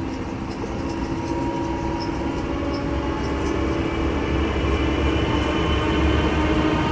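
A train running along the line, a steady rumble with a few held hum tones over it, growing a little louder toward the end.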